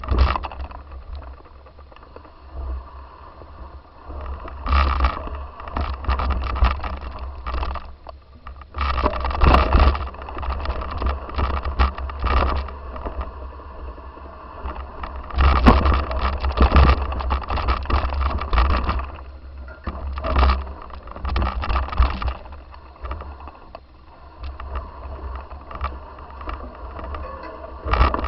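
Wind buffeting the microphone with irregular bursts of rattling and scraping, as from riding over rough ground.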